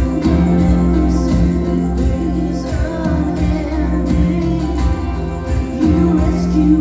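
Church praise band playing gospel music, with sustained low bass notes and a steady beat.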